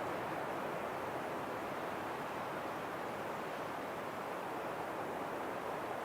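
Steady wind, an even rushing hiss that holds at one level throughout.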